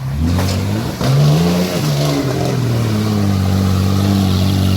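A car engine revving: its pitch climbs and falls back about a second in, then it holds at a steady engine speed.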